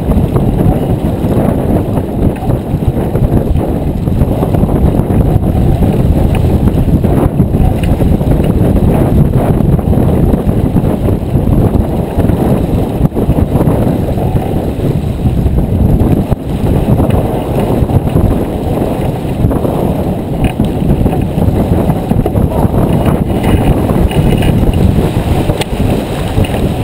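Steady, heavy low rumble of wind buffeting the microphone aboard a J24 sailboat under way.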